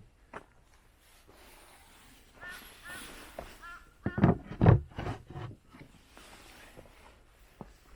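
Scattered knocks and a few heavy thumps, loudest about four to five seconds in, with short bird calls repeated a few times just before them.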